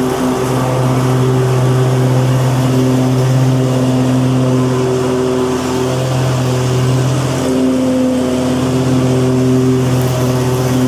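Lawn mower engine running steadily, its note shifting briefly twice.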